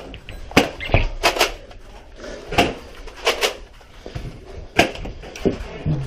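Irregular sharp clacks and knocks from Nerf Rival Apollo blasters firing and foam balls striking walls and objects, about a dozen in all, some in quick pairs.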